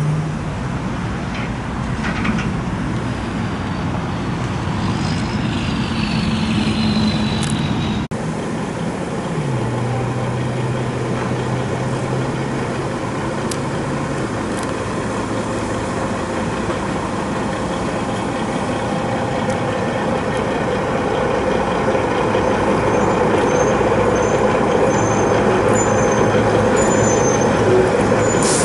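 Road traffic on a busy highway: a steady rush of passing vehicles. A heavy vehicle's engine note rises in pitch about nine seconds in and holds for several seconds.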